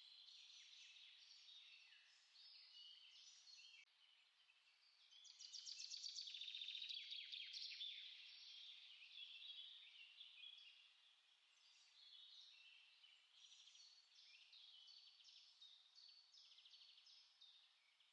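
Faint chorus of small songbirds: many short chirps and warbles overlapping, with a louder rapid trill from about five to eight seconds in.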